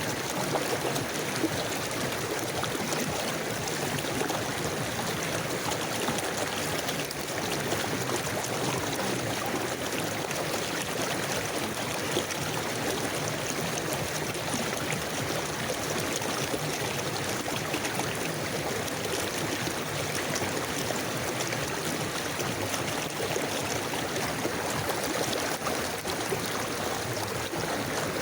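A river flowing steadily, a continuous even rush of water with some trickling and gurgling.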